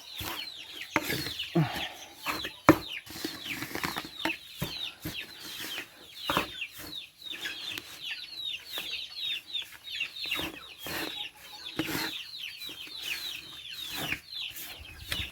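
A flock of upgraded native chickens clucking and chirping, with many short high chirps that fall in pitch, mixed with scattered sharp knocks.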